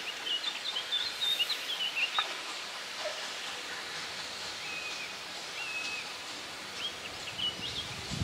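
Small birds chirping in short, quick notes over a steady faint background hiss.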